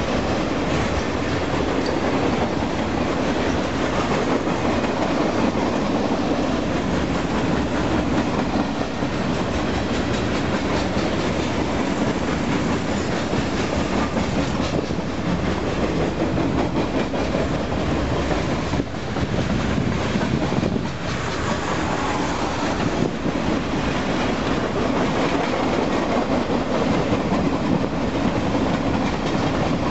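Freight train rolling past, a steady rumble of steel wheels on rail with clattering wheel clacks over the joints.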